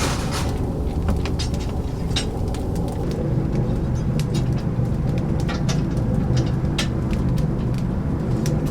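Oak firewood fire burning in a chicken-roasting oven: a steady low rumble with sharp crackles and pops scattered all through.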